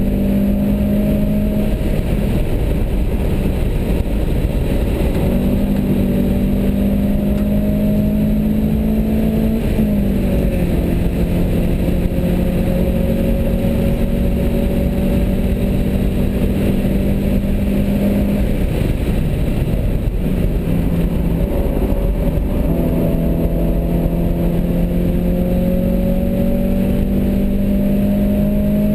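A 1994 Mazda Miata's four-cylinder engine running hard on track, heard from inside the cabin over a heavy rush of noise. Its pitch climbs slowly, dips sharply about ten seconds in, and drops away twice, each time coming back and climbing again.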